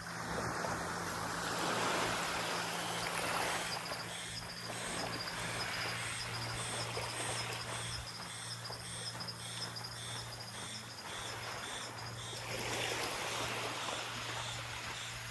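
Small waves washing on a sandy beach, swelling and easing. From about four seconds in until near the end, a high chirping call repeats about twice a second, and a faint low steady hum runs underneath.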